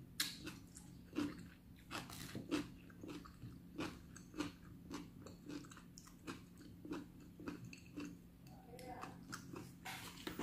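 A person chewing crispy fried chicken close to the microphone, with a steady run of crunchy bites about every half second and a sharp crunch right at the start.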